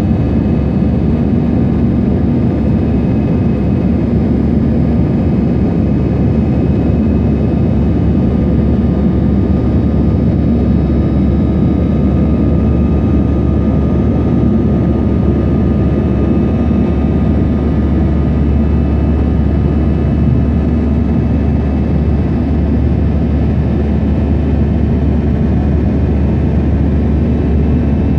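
Airbus A321 jet engines running at a steady, unchanging level during takeoff, a dense low-pitched noise with faint steady whining tones above it.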